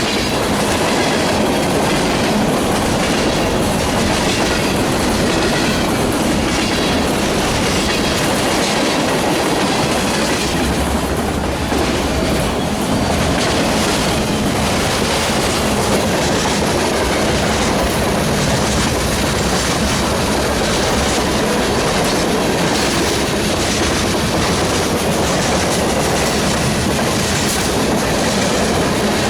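Freight train cars rolling past, their wheels clicking steadily over the rail joints.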